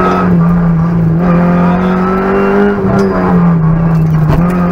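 Peugeot 106 Rallye N1's four-cylinder petrol engine running hard at high revs under load, heard from inside the cabin; the pitch holds nearly steady, rising slightly, with a brief dip about three seconds in.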